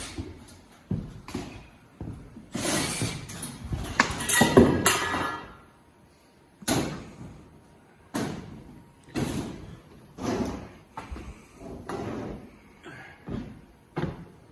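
Construction handling noise: a few seconds of scraping and clattering, then a run of separate knocks and thuds, about one a second.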